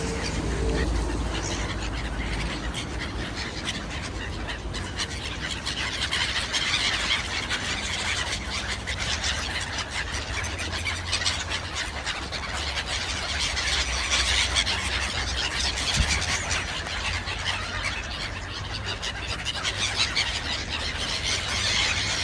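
A flock of birds calling and chirping continuously as they gather for food, many short calls overlapping, over a steady low rumble.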